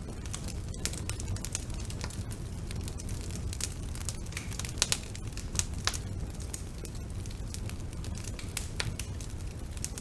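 Wood fire burning in a fireplace: irregular sharp crackles and pops over a steady low rumble of the flames, with a couple of louder pops about five seconds in.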